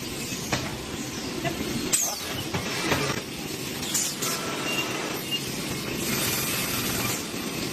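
Hydraulic vertical band sawmill working a log: a steady mechanical noise with several brief high falling squeals and occasional knocks.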